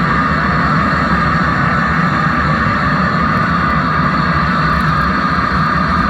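Large concert crowd cheering and applauding in a loud, steady roar as a rock song ends.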